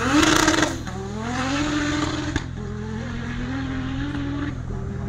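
Car engine revved hard at a drag-race start line. There is a loud rev at the start, then the revs drop and climb again, a sharp crack comes about two and a half seconds in, and the engine holds a lower steady speed before easing off near the end.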